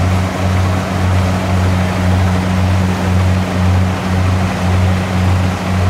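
Kubota DC70 combine harvester running steadily, a low drone that pulses about twice a second with a hiss over it.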